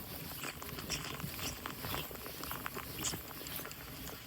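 Heavy rain pattering steadily, a dense run of small irregular ticks over a constant hiss.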